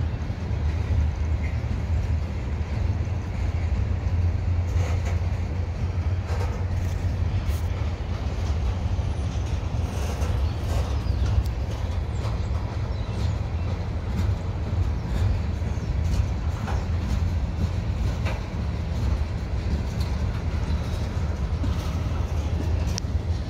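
Slow-rolling freight train of covered hopper and tank cars passing close by: a steady low rumble of steel wheels on rail, with scattered faint clicks.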